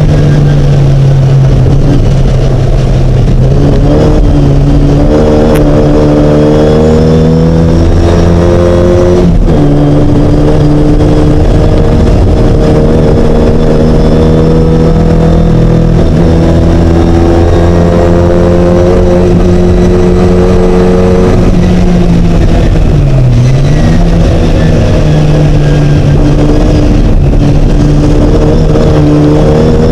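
Mighty Mini race car's engine running hard, its pitch climbing slowly in each gear and dropping back at each gear change or lift, several times over.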